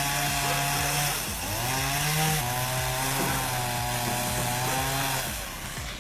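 Chainsaw running at high revs, its pitch sagging about a second in and then recovering, before it drops off near the end.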